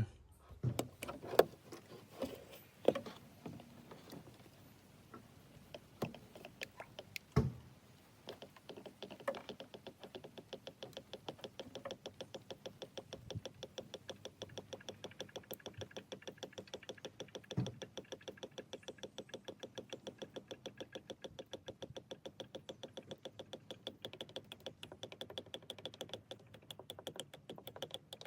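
A few scattered knocks and clicks, then new engine oil glugging steadily out of its bottle into the filler, about four to five even glugs a second.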